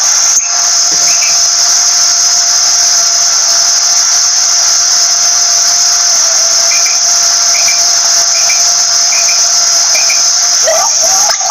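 A steady shrill high buzz runs throughout, with faint short double calls of a quail (batair): once about a second in, then repeating about every 0.8 s from about two-thirds of the way through.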